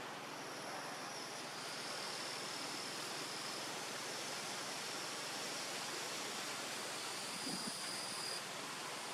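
Steady rushing of running water, with insects' thin high trills holding on and off above it. A brief low bump about three-quarters of the way through.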